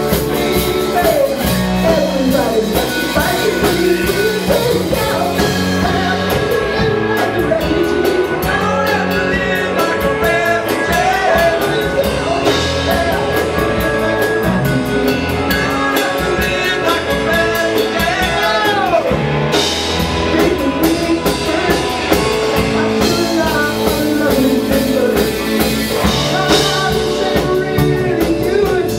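Live rock band playing with singing: electric guitar, bass and drum kit, with a vocal line over a steady beat.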